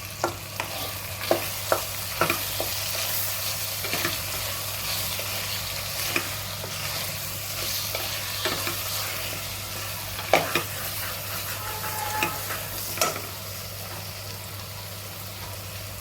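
Vegetables sizzling as they fry in oil in a pan with freshly added turmeric powder, stirred by a utensil that knocks and scrapes against the pan now and then, the sharpest knocks about ten seconds in.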